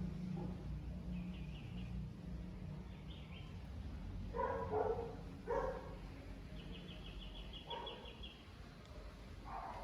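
A dog barks twice near the middle while birds trill in quick high runs, over a steady low hum.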